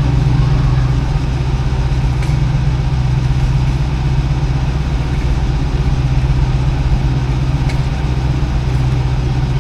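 1955 Chevrolet truck's engine running steadily while cruising slowly, a constant low rumble.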